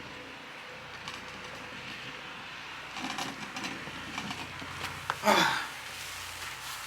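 Corded electric snow blower running in the background as snow is cleared, a steady low hum under the noise. About five seconds in there is a short loud sound falling in pitch.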